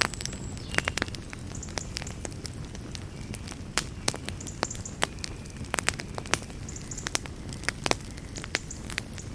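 Campfire burning: burning wood crackling and popping in irregular sharp snaps over a steady low rush of flame.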